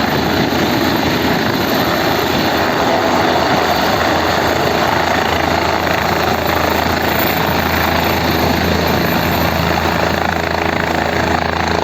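Helicopter running steadily, its engine and rotor noise holding an even level with a steady low hum.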